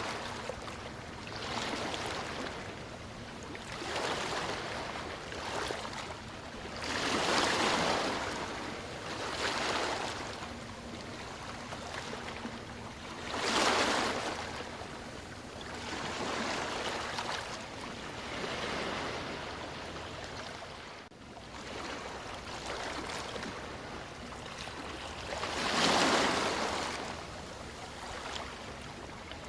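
Ocean waves washing in: a rushing surf noise that swells and falls back every few seconds, with stronger surges about a quarter, halfway and near the end.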